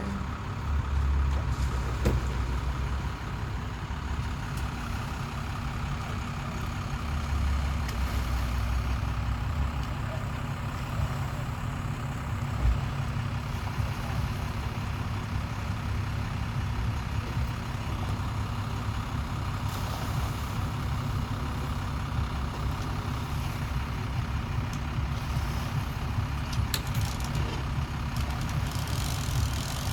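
Motor engines idling, a steady low rumble. The rumble swells briefly about a second in and again from about seven to ten seconds in.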